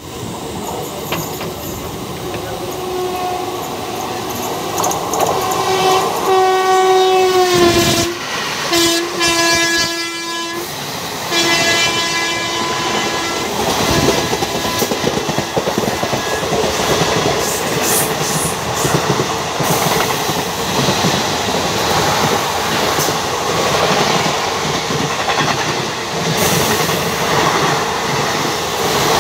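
Indian Railways express train passing at speed and sounding its horn in three long blasts, the last ending about halfway through, with continuous rumble and clatter of wheels on rails.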